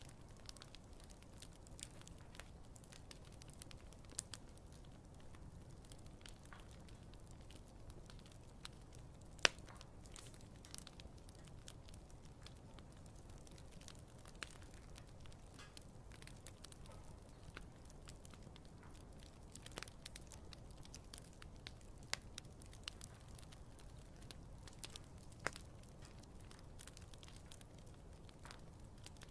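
Wood campfire crackling faintly, with scattered small pops over a low steady rumble, and one sharp, louder pop about nine and a half seconds in.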